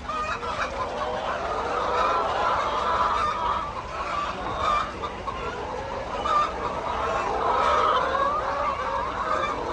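A large flock of hens clucking and calling all at once, many overlapping calls making a steady din.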